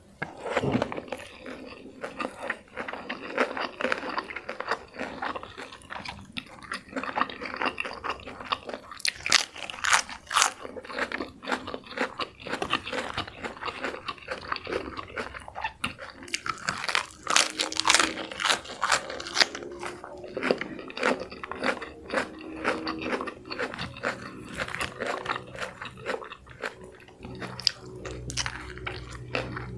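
Close-miked bites into crispy fried chicken, with sharp crackling crunches of the coating and wet chewing in between. The crunches are loudest in two clusters, about a third and again about three-fifths of the way through.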